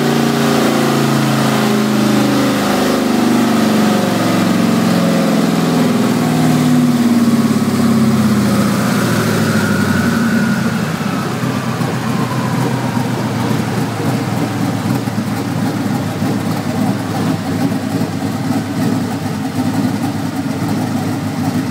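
Twin-turbocharged 5.3-litre V8 running on E85 held at speed on a chassis dyno, then letting off so the revs fall away to a lumpy idle about eight seconds in. A whistle rises and fades as the revs come down.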